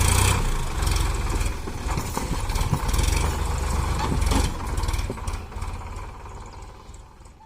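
Sonalika DI 42 RX tractor's diesel engine running with a low, rapid pulsing chug, fading away over the last two seconds or so.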